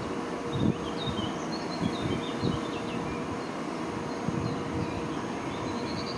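Small birds chirping in short twittering runs, about a second in and again near the end, over a steady low rumble with a faint hum.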